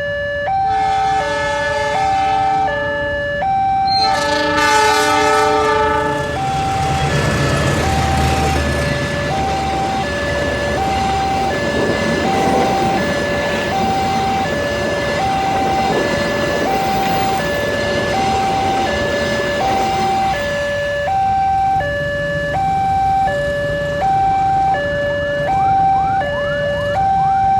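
Railway level-crossing warning alarm repeating a steady two-tone hi-lo pattern, about one cycle a second. A train's multi-tone horn sounds for several seconds near the start, then the Taksaka passenger train passes the crossing with a long rumble lasting about fifteen seconds.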